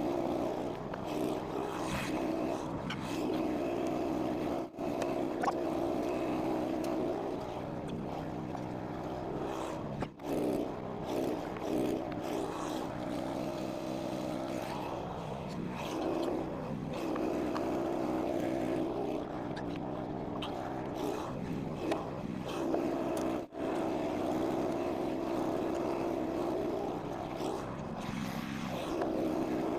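Chainsaw running at high revs, cutting slab wood, its pitch sagging and recovering as it works through the cuts.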